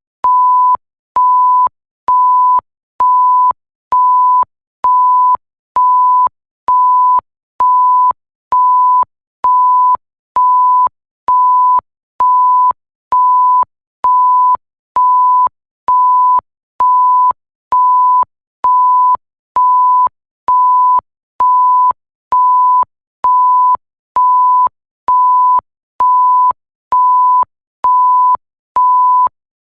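Electronic 1 kHz bleep tone, a pure single pitch, repeating evenly at about one short beep a second, each beep starting and stopping with a faint click.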